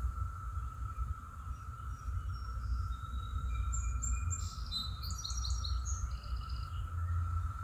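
Outdoor background of birds chirping in a short flurry from about three to six seconds in, over a steady low rumble and a thin, steady high hum.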